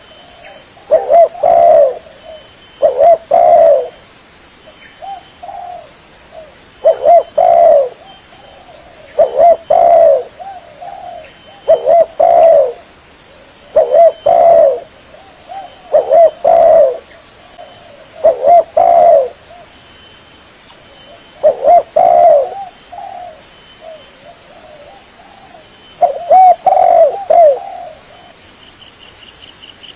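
Spotted dove (tekukur) cooing: a loud, repeated phrase of a few short, mellow coo notes, about one phrase every two seconds, with softer coos in between. It is a dove-call recording made for luring birds.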